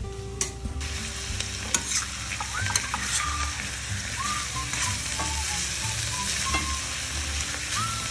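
Food sizzling as it fries in a pan, growing denser about a second in, while it is stirred with a utensil that knocks against the pan a few times.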